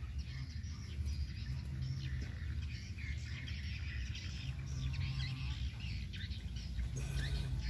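Small birds chirping intermittently in the background over a low steady rumble.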